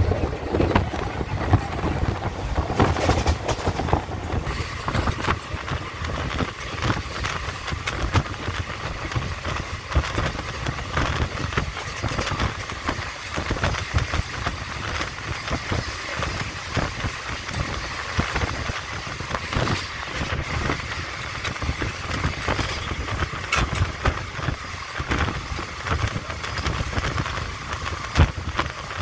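Indian Railways passenger coach running along the track: a steady rumble with constant rattling and clicking of wheels on rails and coach fittings.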